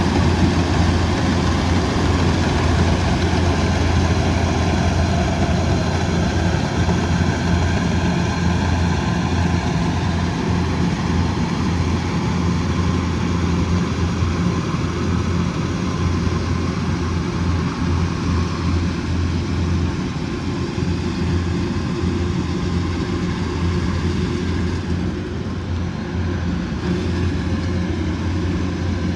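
Diesel engine of a Kubota DC108X rice combine harvester running steadily with a deep, even hum, easing off a little toward the end.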